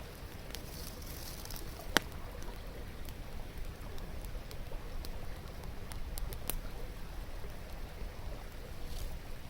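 Wood campfire crackling, with scattered sharp pops and one louder pop about two seconds in, over the steady murmur of a flowing river.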